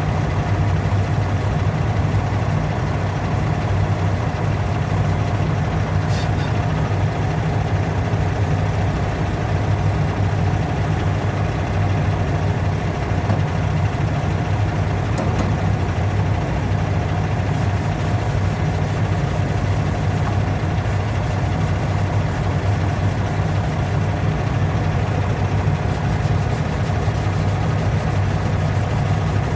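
A steady, even, low machine hum runs throughout, like a motor running continuously.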